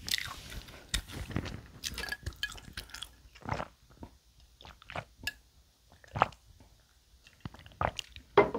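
Close-miked chewing and wet mouth sounds as a mouthful of food is eaten, then a few swallows of water from a glass, with a couple of sharper clicks near the end.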